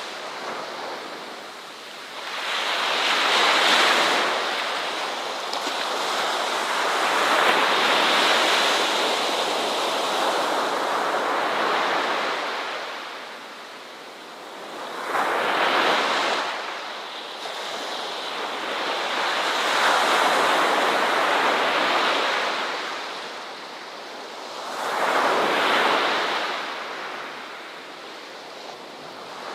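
Ocean waves breaking and washing on a shore, a rushing hiss that swells and ebbs in slow surges every several seconds.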